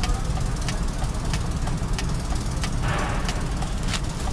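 Mercedes truck diesel engine idling with a steady low rumble; its cylinder 4 injector has been diagnosed as faulty. A sharp tick comes about every two-thirds of a second, and there is a brief hiss about three seconds in.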